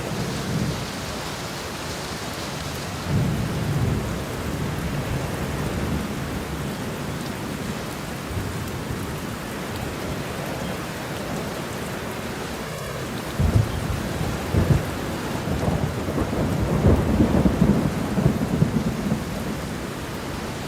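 Steady rain falling, with low rolls of thunder: a short rumble a few seconds in and a longer, crackling rumble through the second half.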